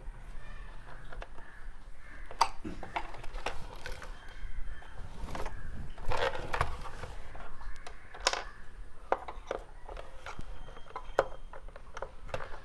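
Irregular clicks, taps and scrapes of a screwdriver and screws working on an emergency lamp's plastic casing as it is screwed back together.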